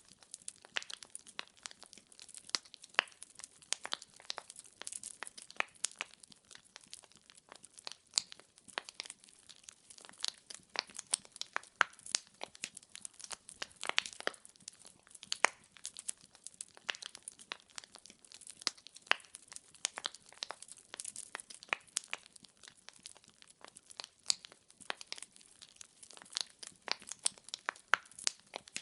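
Wood fire in a fireplace crackling: dense, irregular pops and snaps of burning logs over a faint hiss.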